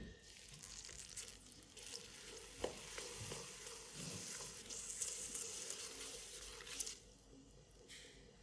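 Wet hands working porcelain clay on a spinning pottery wheel: a steady wet hiss with a few soft clicks, stopping about seven seconds in, over a faint steady hum.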